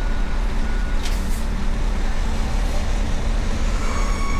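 Truck engines running with a low, steady rumble, and a brief hiss about a second in.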